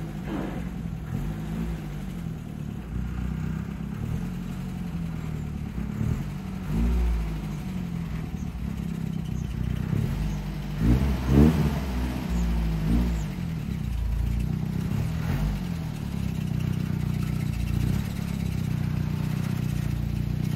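UAZ-469B's four-cylinder petrol engine running at low speed, its revs rising and falling several times, with the strongest burst of revs about halfway through.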